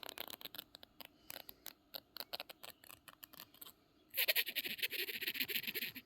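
Domestic cat chattering at birds: a run of quick, irregular clicks for the first few seconds, then a louder, rapid pulsing chatter for about two seconds near the end.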